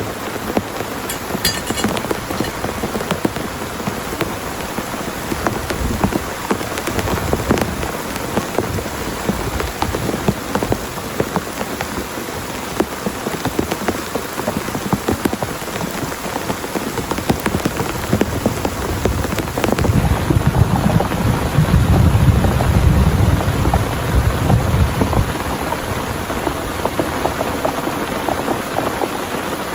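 Heavy rain pattering steadily on a surface, with a low roll of thunder rumbling for several seconds about two-thirds of the way through.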